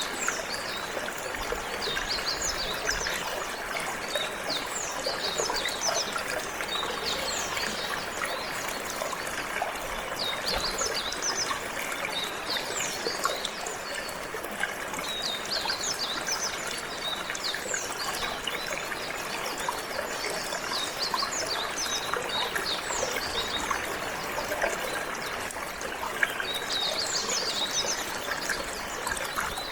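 Water trickling and flowing steadily, with a canary singing over it in bursts of quick, high chirps and trills.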